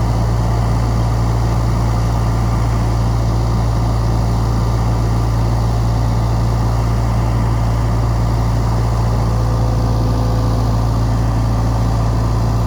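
Case skid steer's diesel engine running steadily, a loud, even low drone with no revving.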